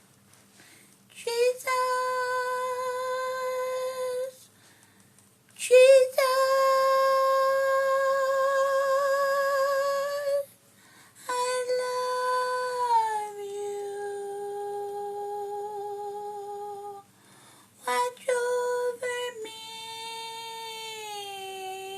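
A woman singing a slow worship song in a high puppet-character voice, drawn out into long held notes without clear words, some with vibrato, in several phrases separated by short breaths, with the pitch stepping down at the ends of phrases.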